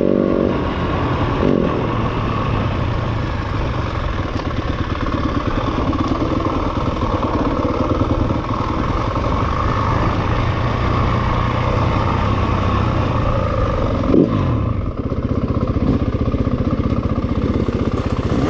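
Dirt bike engine running steadily while ridden, with a brief sharp rev about fourteen seconds in.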